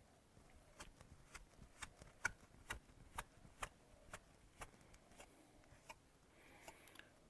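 Faint, evenly spaced clicks, about two a second.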